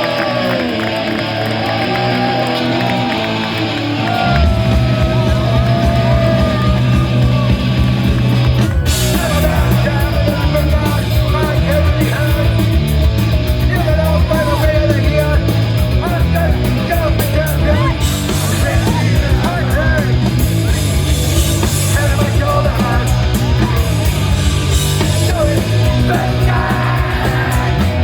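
Hardcore punk band playing live. A song opens on guitar, the bass and drums come in about four seconds in, and shouted vocals join a few seconds later.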